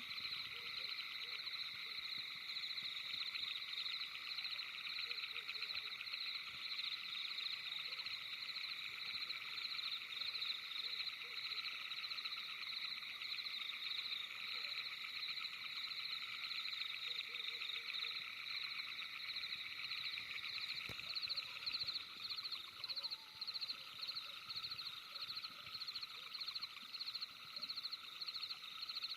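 Dense night-time animal chorus: many rapid trilling calls layered at several high pitches, steady throughout, the pulsing growing more distinct in the last several seconds.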